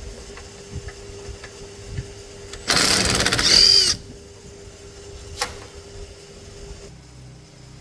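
A power tool runs in one short burst of about a second, its pitch rising and falling, with a few light metal clicks and a faint steady hum around it.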